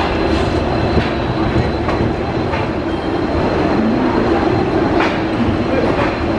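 Passenger train running on the track with a steady rumble, its wheels clicking over rail joints a few times, irregularly spaced.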